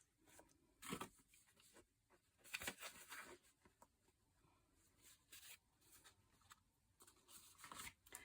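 Faint rustling and soft clicks of paper pages being handled during hand bookbinding, in a few short bursts with near silence between.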